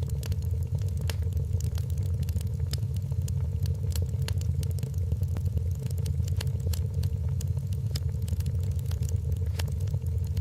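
Wood fire crackling in a fireplace: scattered sharp snaps over a steady low rumble.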